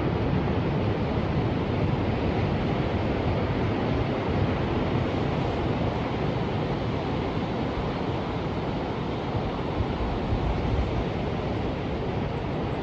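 Ocean surf: a steady, unbroken rush of waves washing in, deep and even, with no single breaker standing out.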